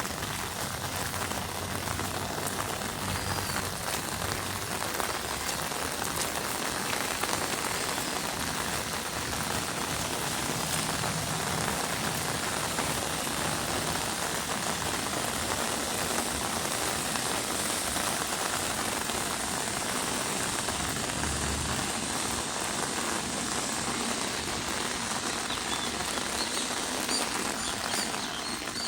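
Steady rain falling and pattering on surfaces. Faint short chirps come through the rain near the start and again near the end.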